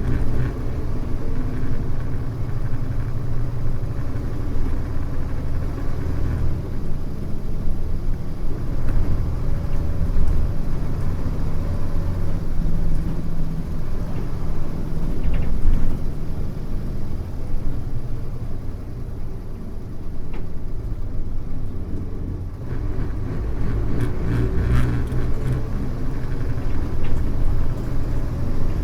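Mitsubishi Fuso U-MK618J diesel route bus running: a continuous engine rumble whose note rises and falls as the bus changes speed, easing off briefly about three-quarters of the way through before picking up again.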